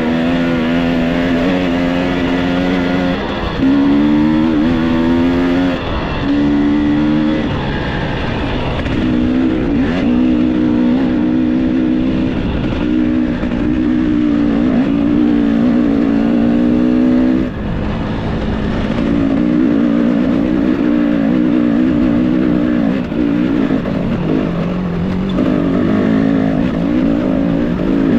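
Enduro dirt bike engine under way, its revs rising and falling repeatedly with the throttle, with a few brief drops in revs.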